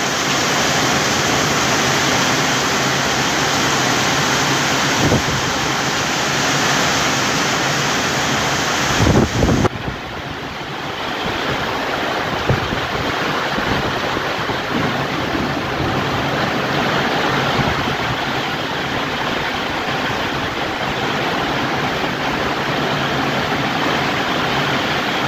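Heavy rain falling steadily, a dense even hiss. A few brief bumps come in the first half, and about ten seconds in the rain turns slightly duller.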